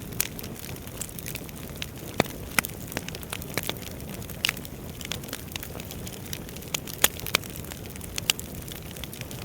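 Wood fire burning in a fireplace: a steady low rushing with irregular crackles and sharp pops throughout, the loudest pops about two seconds in and about seven seconds in.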